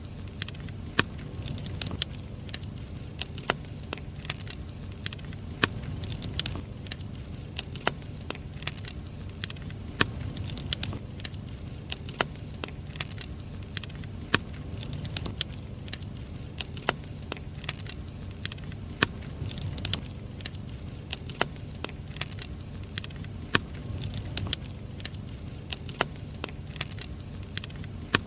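Burning firewood crackling, with sharp pops coming irregularly several times a second over a low, steady rumble.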